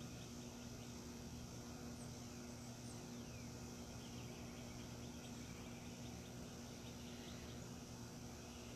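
Faint outdoor ambience: a steady high insect drone with scattered short bird chirps, over a steady low hum.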